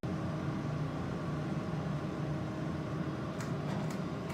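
Steady mechanical hum, like a motor or fan running, with a few faint clicks near the end.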